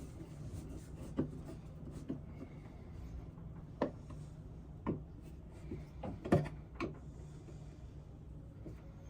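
Irregular light knocks and clicks of tools and parts being handled during electrical work in a boat's small head compartment, about six of them, the loudest a little past the middle. A steady low hum runs underneath.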